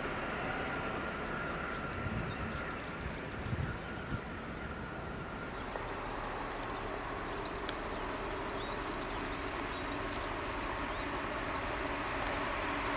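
Distant trains running along the line: a steady low rumble, with a faint steady whine that stops about six seconds in.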